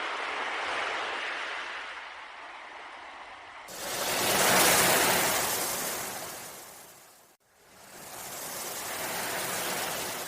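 Ocean waves washing in, in three surges that swell and fade. The loudest starts suddenly a little over a third of the way in and dies away to a brief dropout, with the next surge following at once, as in sound-effect recordings joined end to end.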